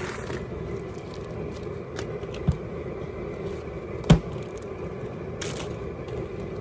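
Propane burner running steadily under the boil pot, with two sharp knocks, about two and a half and four seconds in, the second the louder.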